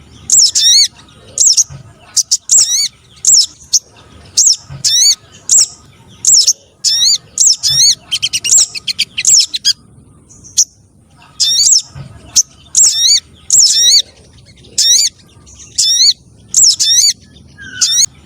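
Bird-lure recording of a spiderhunter (sogon trotol): loud, short, high chirping call notes repeated about once or twice a second, with a pause of about a second and a half near the middle.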